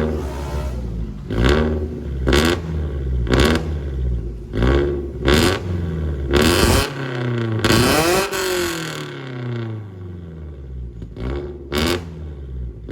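Toyota FT86's 2.0-litre flat-four boxer engine through an aftermarket full exhaust system, revved in a string of quick throttle blips, each rising sharply and dropping back. One longer rev comes about eight seconds in and falls slowly to idle, then two more quick blips near the end. The electric exhaust valve is open.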